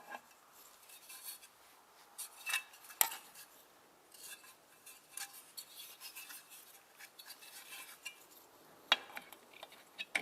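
Metal clinks and taps: a gearbox rear cover plate and its screws being handled and fitted onto the casing, with the sharpest knocks about 3 seconds in and near the end.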